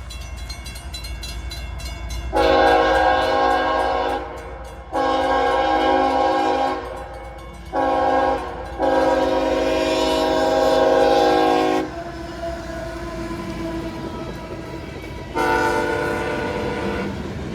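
CSX freight locomotive's air horn sounding the grade-crossing signal, long, long, short, long, then another long blast near the end, each blast a chord of several notes. Between the blasts the train rumbles as it approaches.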